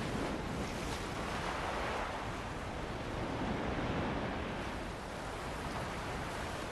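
Ocean waves washing on a shore with wind, a steady rush that swells and eases slowly over a few seconds.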